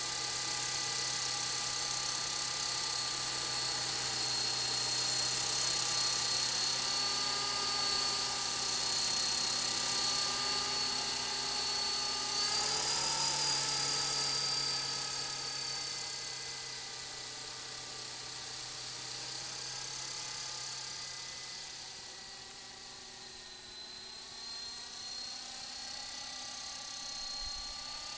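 Small electric radio-controlled helicopter (Walkera LM3) in flight, its motors and rotors giving a steady high whine. The pitch rises briefly about halfway through, and the sound then grows quieter.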